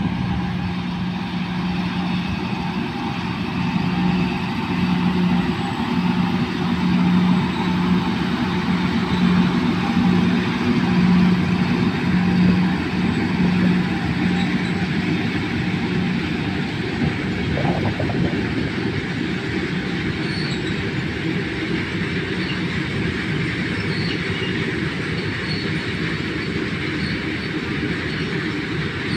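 Twin WAG-9HC electric locomotives passing at speed, with a steady low hum that pulses slightly and fades after about thirteen seconds. Then the continuous rumble of BOXNHL freight wagons rolling over the rails, with one brief click about eighteen seconds in.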